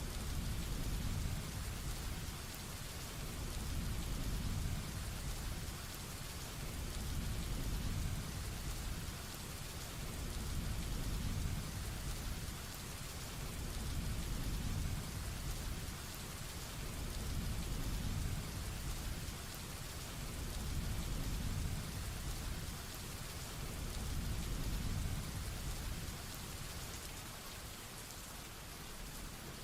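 Heavy rain falling steadily, with a low rumble underneath that swells and fades about every three and a half seconds.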